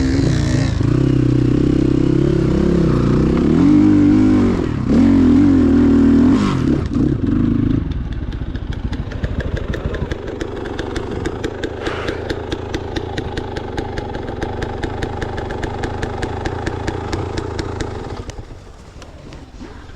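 Motorcycle engine revved several times, its pitch rising and falling, then running more steadily and quieter with a fast, even pulse, dying away near the end.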